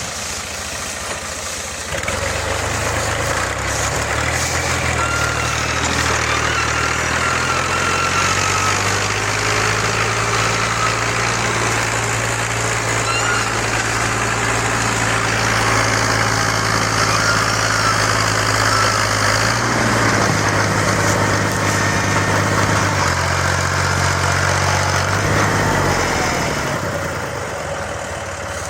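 Diesel tractor engine running steadily, getting louder about two seconds in, shifting in pitch a few times, then fading near the end.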